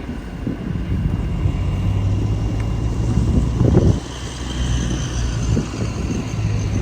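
A steady engine hum under gusts of wind buffeting the microphone, with a stronger gust about three and a half seconds in.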